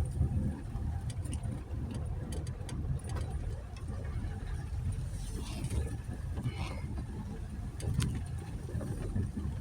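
2020 Jeep Gladiator driving slowly over a dirt trail: a steady low rumble of engine and tyres, with scattered clicks and knocks from gravel and the body.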